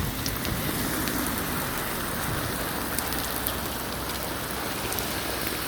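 Hailstorm: hail and rain pelting down steadily, with scattered sharp ticks of hailstones striking hard surfaces.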